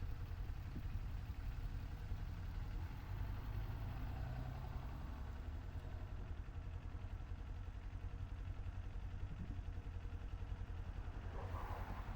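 Kawasaki Z400 parallel-twin motorcycle engine running steadily, heard from the rider's helmet.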